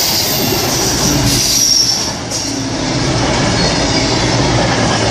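CrossCountry Voyager diesel multiple unit passing through the station at speed: a loud, steady rush of wheels on the rails and running gear.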